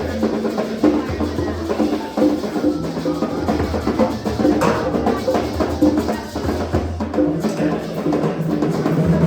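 Several people at once exploring assorted percussion instruments: a dense, overlapping jumble of drum and wood-block strikes and ringing metal, with held low notes underneath.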